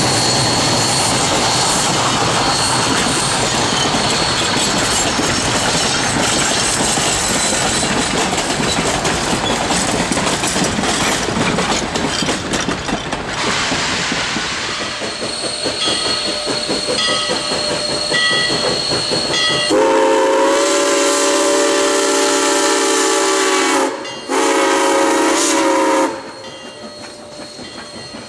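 A train rolling past with steady wheel-and-rail noise. Near the end it sounds two chord blasts, a long one of about four seconds and then a short one.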